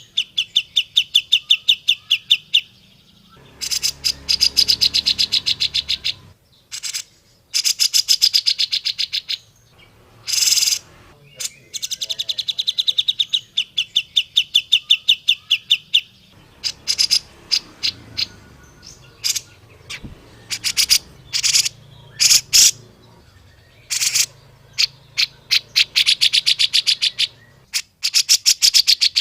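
Cucak jenggot (grey-cheeked bulbul) calling: long runs of fast, evenly repeated high chattering notes, each run a few seconds long, broken by short pauses and single sharp notes.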